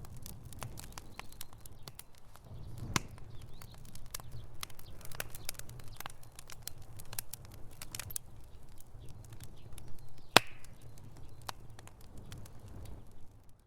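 Wood fire in a fireplace crackling: irregular sharp pops and snaps over a steady low rumble of flame, with one loud snap about ten seconds in.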